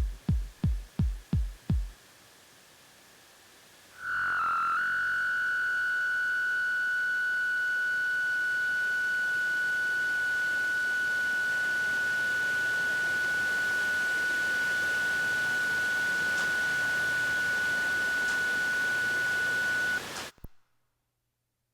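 Electronic heartbeat-style thumps, about four a second, stop; two seconds later a single steady high electronic beep starts and holds unchanged for about sixteen seconds before cutting off abruptly: a heart monitor flatline tone, the sign of death.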